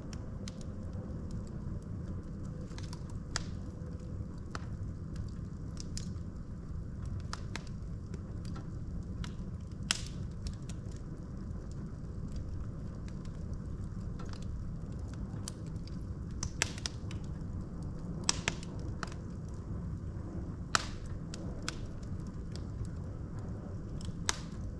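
Log fire in a fireplace burning with a steady low rumble and irregular sharp crackles and pops from the burning wood, a handful of them louder than the rest.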